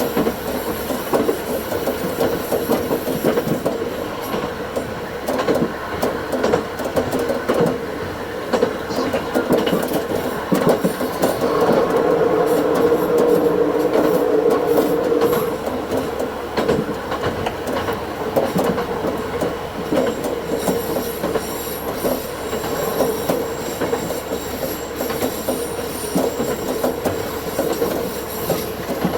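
Diesel railcar running on the line, heard in double-speed playback: a steady running hum with wheels clicking over rail joints. The hum swells louder for a few seconds around the middle, and the wheels squeal high on the rails through the second half.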